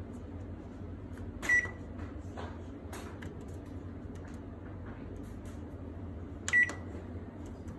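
Samsung MS28J5255GB microwave oven beeping twice, two short beeps about five seconds apart, over a steady low hum with light clicks in between.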